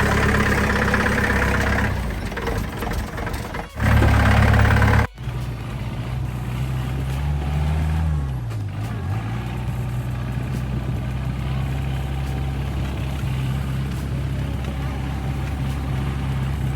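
Off-road jeep engine running as it works up a rough, rocky track. The sound changes abruptly twice in the first five seconds, and about eight seconds in the engine note drops and comes back up.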